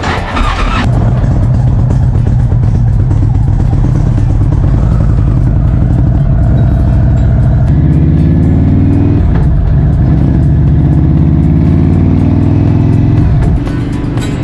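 Indian motorcycle's V-twin engine under way, pulling hard: its pitch climbs twice with a gear change between, then eases off near the end.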